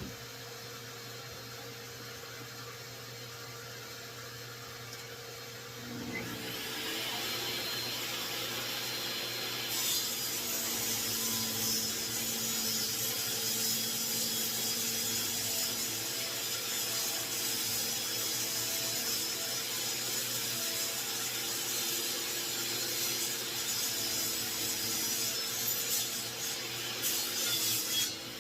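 Table saw motor spinning up about six seconds in, then the blade ripping red oak stock to width, a loud, steady cutting noise from about ten seconds in that stops just before the end. A steady hum runs underneath throughout.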